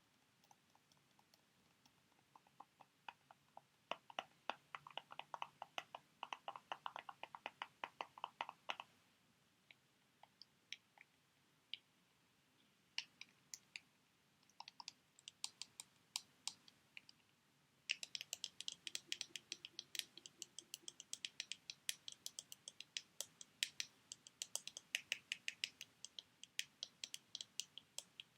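Fingernails tapping quickly on sheet mask packets, in runs of sharp clicks. A dense run about 4 to 9 seconds in is followed by scattered single taps, then a faster, brighter run from about 18 seconds on.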